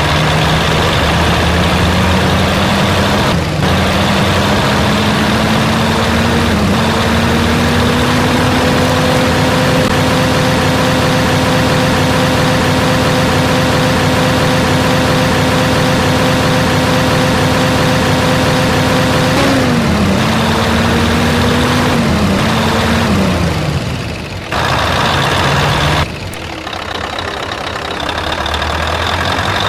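Heavy truck engine pulling through the gears: the pitch climbs with short dips at two gear changes in the first seven seconds, then holds steady at cruising speed. Around twenty seconds in it drops in several steps as the truck slows, and it settles to a quieter, lower running sound near the end.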